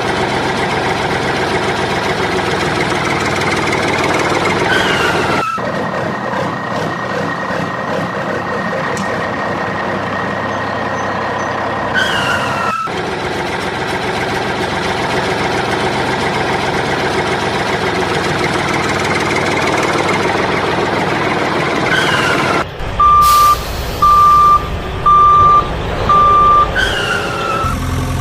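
Looped truck engine sound effect running steadily, with abrupt cuts between repeats and a falling, air-brake-like chirp recurring at each loop. Near the end come four reversing beeps about a second apart.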